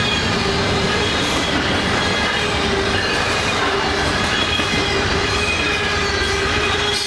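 Canadian Pacific freight train's cars rolling past, a loud steady rumble with thin squealing tones from the wheels on the rails.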